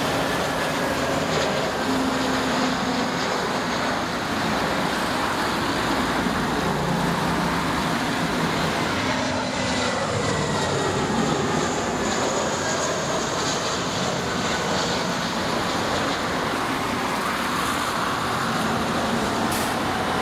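Jet airliner engines running loud and steady, with faint whining tones that slide down in pitch around the middle.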